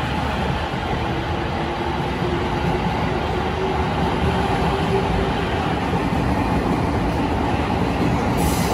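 Musashino Line electric commuter train moving along an underground platform: a steady rumble of wheels and running gear with a faint motor whine, echoing in the station box.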